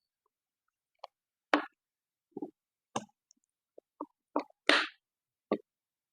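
Eating sounds: a string of short mouth smacks and chews, about eight in all, the loudest just under five seconds in.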